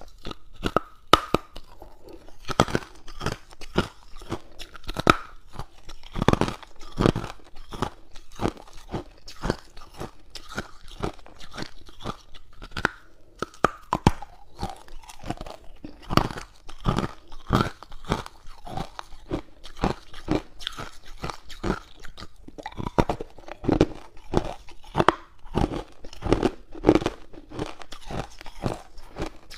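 A person biting into and chewing hard ice cubes, with a steady run of sharp, irregular crunches and cracks, several a second, close up.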